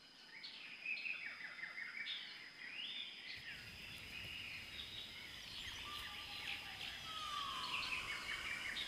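Several birds chirping and twittering, many short calls and quick down-slurred whistles overlapping, over a steady thin high tone.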